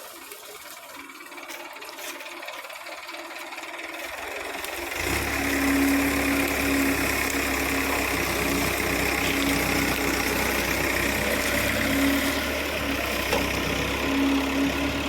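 Sugarcane harvester's engine running steadily with a low hum and a droning tone. It comes in loud, and suddenly, about five seconds in, after a quieter stretch of faint hiss.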